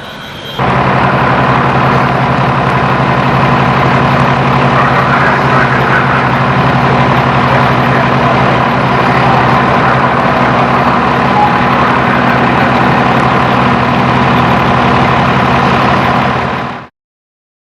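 Aircraft engine running steadily and loudly at close range, then cutting off suddenly near the end.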